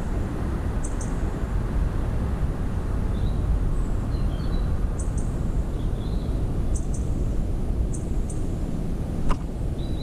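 Small garden birds chirping: short high double chirps every second or two, with fainter, lower calls between them, over a steady low rumble. A single sharp click comes near the end.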